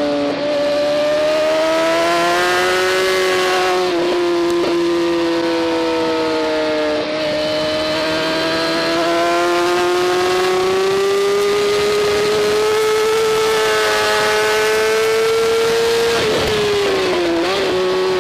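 BMW S1000RR superbike's inline-four engine running at high revs on track. Its pitch climbs slowly, with brief dips at gear changes near the start and around 4 and 7 seconds, and falls briefly about three-quarters of the way through as the bike slows.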